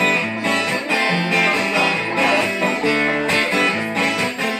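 Acoustic guitar strummed in a steady rhythm, playing an instrumental break between sung verses.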